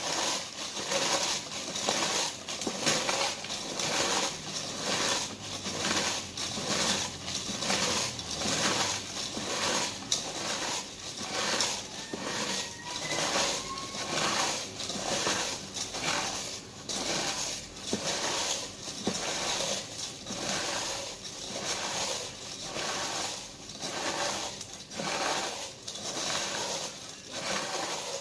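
Doritos tortilla chips being crushed in a pan toward a fine crumb, a steady run of crunches about one to two a second.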